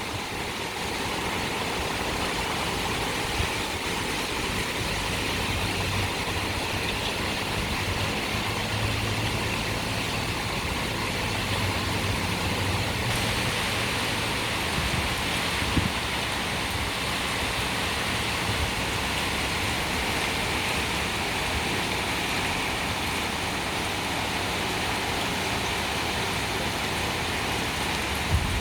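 Heavy rain pouring in a steady downpour on a city street. A vehicle engine hums low for several seconds in the middle.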